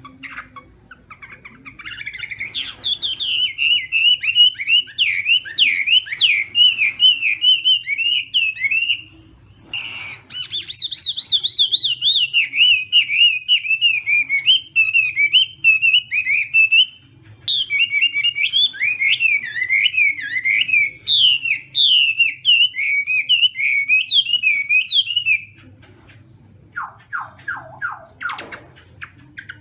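Chinese hwamei (hoạ mi) singing: long, rapid runs of warbled whistled notes in three phrases with short pauses between them, then a different quick series of falling notes near the end.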